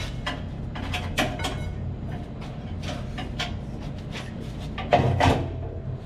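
Scattered metal clinks and knocks of tools and parts being handled while an electric motor is shifted and bolted into alignment, the loudest a quick pair about five seconds in, over a steady low hum.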